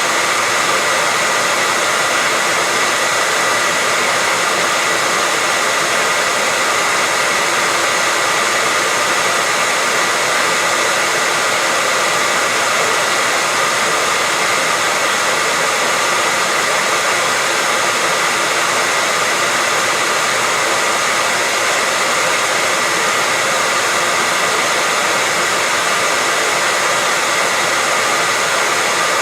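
Hair dryer running steadily: an unbroken rush of blown air with a faint high motor whine, holding the same level throughout.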